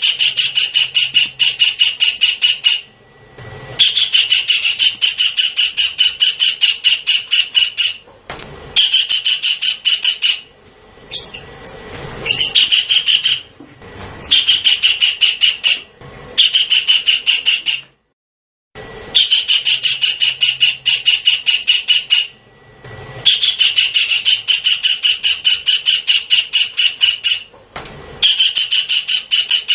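Javan kingfisher calling: a loud, rapid series of harsh, high repeated notes in bouts of two to four seconds, each followed by a short break. It is a lure-call recording played on a loop.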